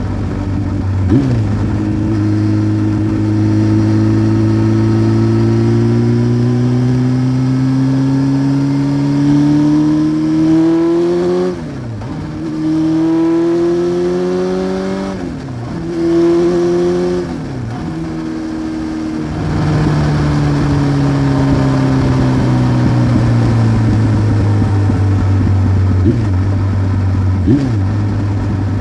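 1993 Honda CBR900RR Fireblade's inline-four through a Remus exhaust under way. The revs climb slowly for about ten seconds. Three quick upshifts follow a few seconds apart, then the revs fall away and settle to a steady cruise.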